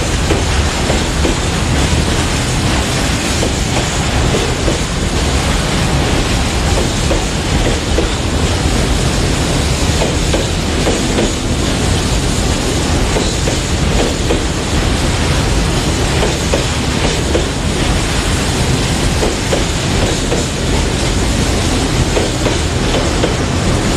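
Long KiwiRail container freight train's wagons rolling past, a steady, loud rumble and clatter of steel wheels on the rails.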